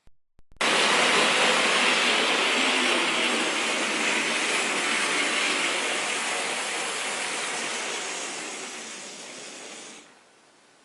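Tyco HO-scale GG-1 model locomotive running on track: a steady whirring rattle of motor and wheels that starts sharply, slowly fades, then cuts off.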